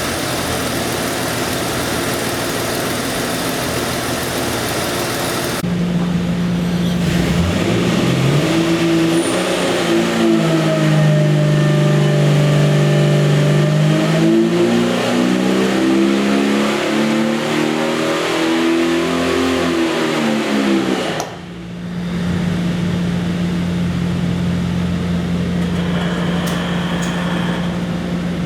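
A Jeep 4.6-litre stroker inline-six engine running on a dynamometer. It settles at idle, then about seven seconds in the revs climb and are held high, rising and falling for about twelve seconds. The revs drop back at around 21 seconds, and the engine idles steadily to the end.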